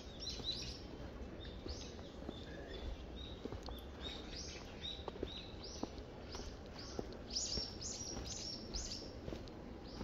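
Small songbirds chirping: a stream of short, high, repeated notes that grows louder and busier about seven seconds in.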